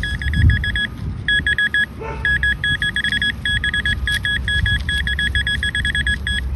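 Metal detector beeping in rapid, evenly pulsed runs of a steady high tone as it homes in on a buried coin in the dug hole. There is low handling and digging rumble about half a second in.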